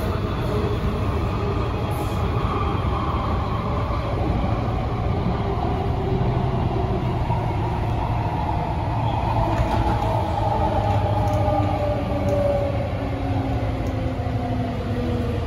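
MTR A-train electric multiple unit (Adtranz-CAF) in motion: a steady low rumble of wheels on track with a motor whine. Over the second half the whine falls slowly in pitch as the train slows.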